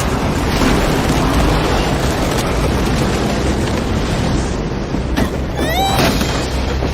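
Cartoon storm sound effect of a tornado's wind: a loud, steady rumbling rush of wind. About five to six seconds in, a few short rising pitched glides sound over it.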